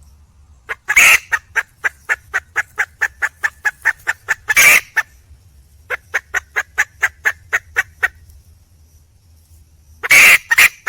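Junglefowl hen calling for a male: runs of short, quick clucks, about five a second, broken by loud harsh squawks about a second in, near the middle and near the end.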